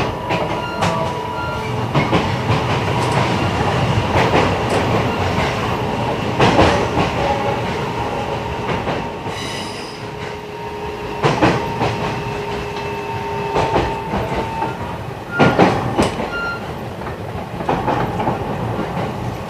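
E129 series electric multiple unit running, heard aboard: a steady rumble of wheels on rail with scattered sharp clicks over rail joints. A thin, steady squeal from the wheels comes and goes.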